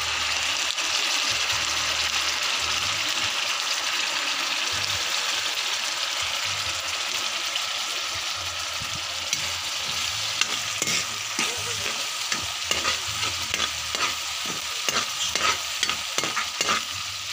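Onion, ginger and bell pepper frying in hot oil in a wok with ketchup just added, a steady sizzle that slowly eases. From about nine seconds in, a spatula stirs and scrapes against the wok in quick, repeated strokes.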